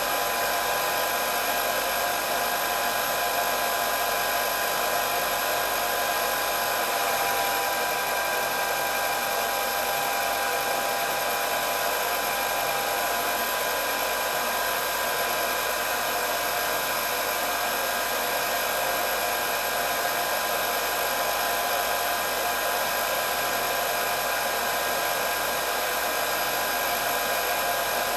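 Electric hair dryer running continuously: a steady rush of blown air with a constant high motor whine over it.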